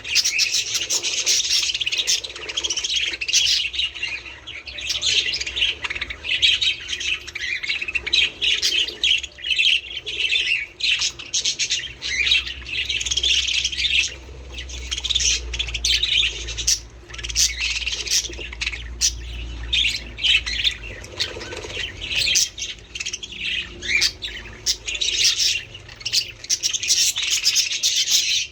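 A flock of budgerigars chattering: continuous, dense high chirps and warbles with no pauses.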